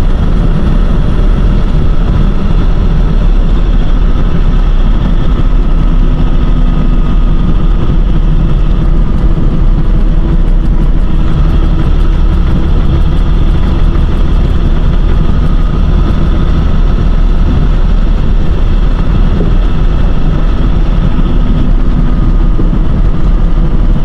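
Box truck engine and road noise heard inside the cab while driving, a loud steady drone.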